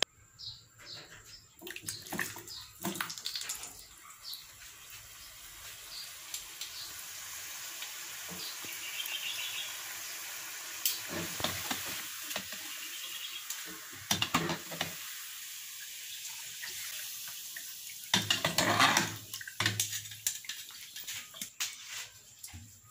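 Potato fries deep-frying in hot oil in a small saucepan: a steady sizzling hiss. Clicks of a metal spatula and mesh strainer against the pan come through it, and a louder burst of clattering and scraping about eighteen seconds in.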